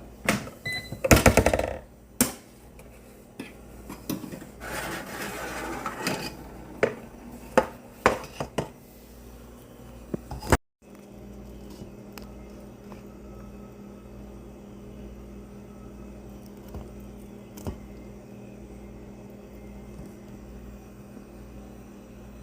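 Kitchen work sounds: dishes and utensils clattering and clicking, loudest about a second in. After an abrupt cut, a steady low hum runs on with an occasional click.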